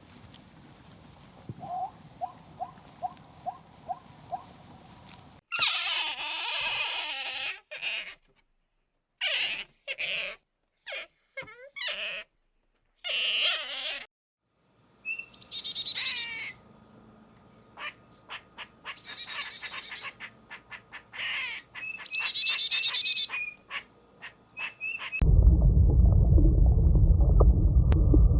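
A string of separate animal calls, mostly bird chirps and squawks: first a run of about seven short evenly spaced notes, then harsh squawks and repeated chirps broken by silent gaps. Near the end a loud, steady low rumble takes over.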